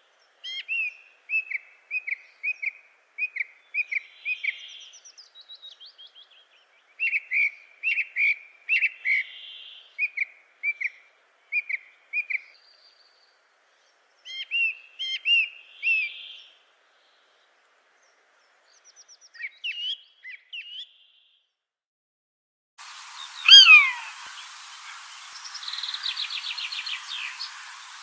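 Wild birds calling: runs of short, evenly repeated chirps, with softer, scattered calls further on. About 23 s in, over a new background hiss, a loud call slides downward in pitch.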